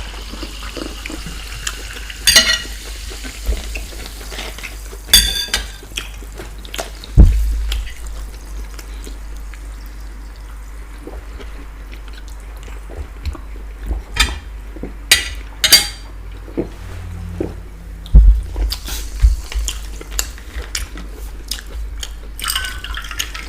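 Eating sounds at the table: a spoon knocking and scraping on a plate in scattered irregular clicks, over a steady low hum.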